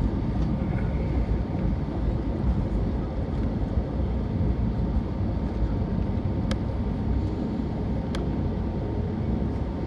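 Steady cabin rumble of an Airbus A320neo rolling on the ground after landing, engines and wheels running at an even level, with a faint steady hum. Two sharp clicks sound in the second half.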